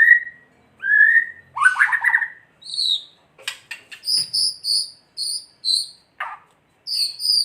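White-rumped shama (murai batu) singing. It gives a few rising whistled notes, a harsh rattling burst about two seconds in, and a quick run of clicks. Then comes a string of short, high, evenly spaced notes at about three a second.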